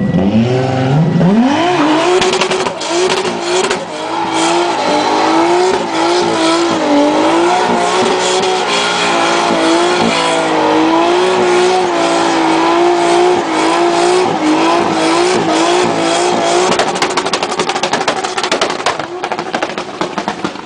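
Toyota Supra's engine revving up fast and held at high revs with the pitch wavering up and down, as in a burnout, over a rough crackling hiss of spinning tyres. The revs drop away near the end.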